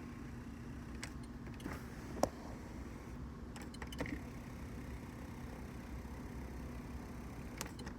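Faint steady hum inside a 2013 Chevrolet Avalanche's cab, with a few light clicks and taps while the power-adjustable pedals are run back and forward; the sharpest click comes a little over two seconds in.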